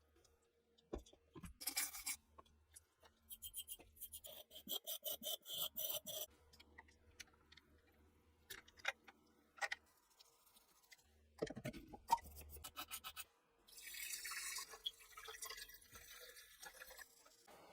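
Hand work on small metal parts: a run of sharp clicks and short rubbing strokes, then a steady hiss lasting about three seconds, starting about 13 s in.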